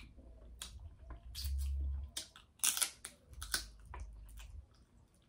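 Close-miked eating sounds of seafood being chewed: scattered wet mouth clicks and smacks, with a low bump about a second and a half in and a sharper click a little before the middle.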